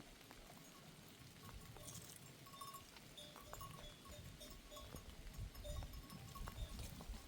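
Herd of goats and sheep, their neck bells clinking faintly and now and then, over a low rumble.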